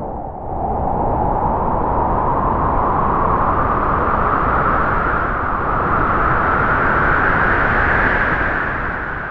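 A long rushing, noisy sound effect whose pitch creeps slowly upward, starting suddenly just before and fading near the end.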